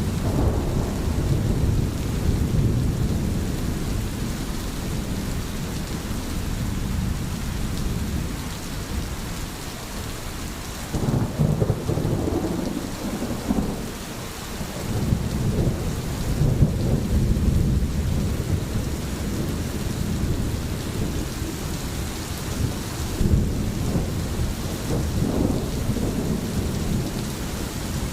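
Steady rain with rolling thunder, the low rumble swelling and fading several times.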